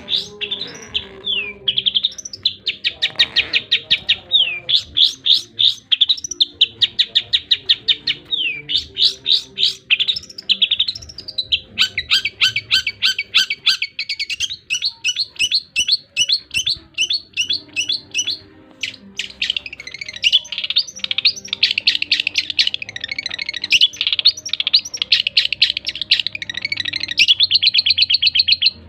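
Long-tailed shrike (cendet) singing without pause: fast chattering trills and rapidly repeated high notes with short pitch glides. There is a brief break about two-thirds of the way through.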